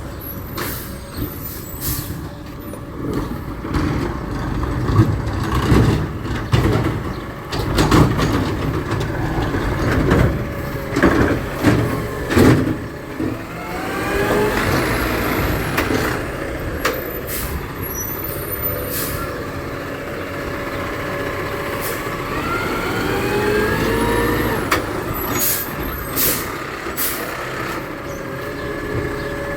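Garbage truck at work: its engine rumbles and twice rises in pitch as it revs, among repeated metal clanks and bangs.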